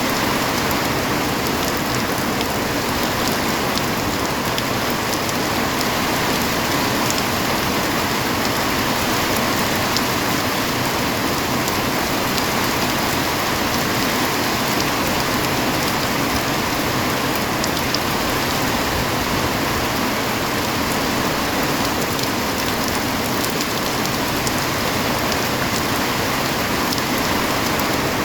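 Steady rain falling, with scattered sharper raindrop hits through an even wash of noise.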